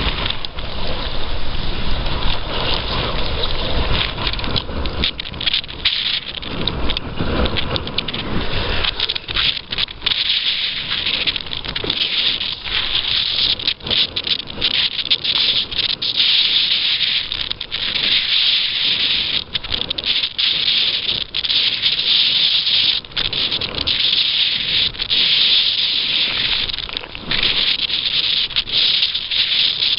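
Steady rushing hiss of wind and water while under sail on the open water, flickering with brief dips. For the first several seconds a low rumble of wind buffeting the microphone lies beneath it.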